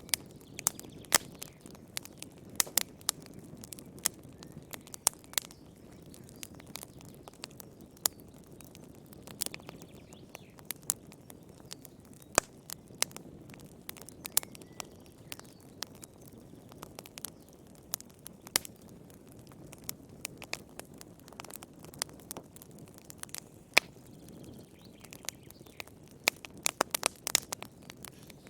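Wood fire in a fireplace crackling: irregular sharp pops and snaps over a steady low rumble of the flames, with a quick run of pops near the end.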